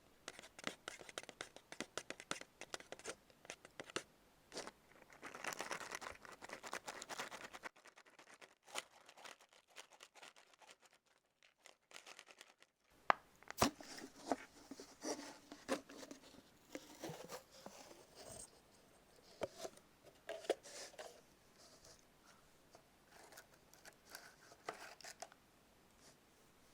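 Close-miked crisp crunching, crackling and tearing of fried karaage being bitten and chewed, in irregular clicks and crackles. It breaks off into silence for about five seconds partway through, then resumes.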